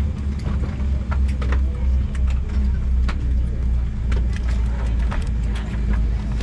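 Airliner cabin noise: a steady low rumble with many short clicks and light rattles scattered through it.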